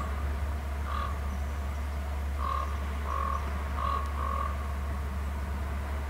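A bird giving about six short, repeated calls at uneven spacing, with several close together near the middle, over a steady low hum.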